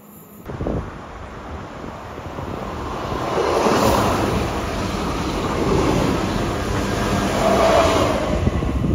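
SNCF passenger train passing close by, its wheels rolling over the rails in a rushing noise that builds for a few seconds, stays loud, then falls away sharply near the end, with wind buffeting the microphone.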